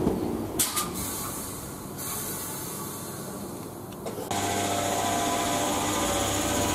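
Electric multiple-unit train at the station: a rumble fades over the first few seconds, then, about four seconds in, a steady electric whine with several pitched tones starts abruptly and holds.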